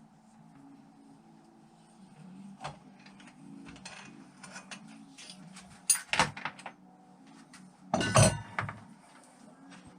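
Metal parts from a 1987 Honda XL600 engine clinking and knocking as they are handled on a workbench during disassembly. The scattered small clicks include two louder clatters, one about six seconds in and one about eight seconds in.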